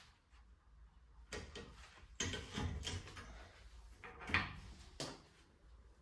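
Metal clanks and scrapes of old rear drum-brake parts (shoes and springs) being worked loose and taken off by hand: a series of short knocks and rattles, the loudest about four and a half seconds in.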